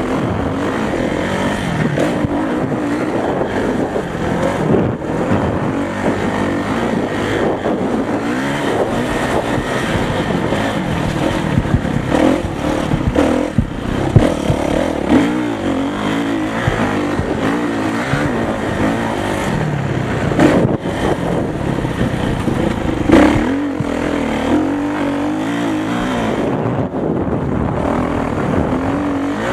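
Motocross motorcycle engines revving, the pitch rising and falling again and again, with a few sharp knocks over them.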